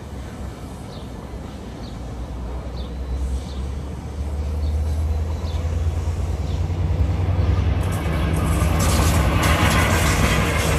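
Long Island Rail Road passenger train approaching and passing: a steady low locomotive drone that grows louder, then about eight seconds in the rush and clatter of the bilevel coaches' wheels on the rails.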